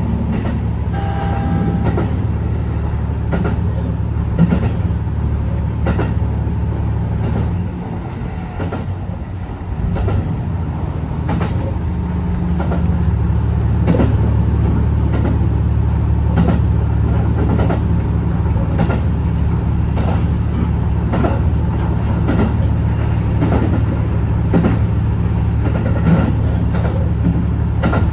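HB-E210 hybrid diesel train running along the line: a steady low drone from the drivetrain with regular clicks of the wheels over rail joints. A short high tone sounds about a second in, and the drone drops away for a couple of seconds near the middle before building again.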